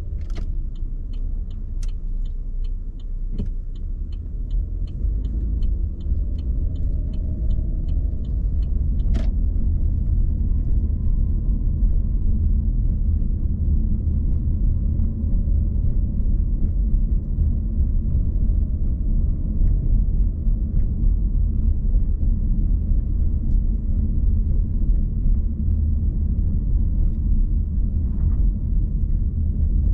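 Car driving, a steady low rumble of road and engine noise. During the first eight seconds a regular ticking, about two and a half ticks a second, runs over it, with a few sharp clicks. The rumble grows a little louder after about nine seconds.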